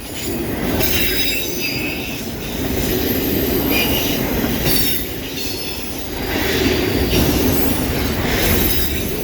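Loaded autorack freight cars rolling past at close range: steel wheels rumbling on the rails, with thin high-pitched wheel squeals coming and going.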